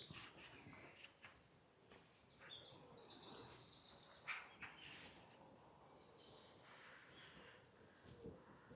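Small songbirds singing: a fast run of rapid, high trilled notes from about a second in, lasting about three seconds, and a shorter high phrase near the end, over faint outdoor background noise.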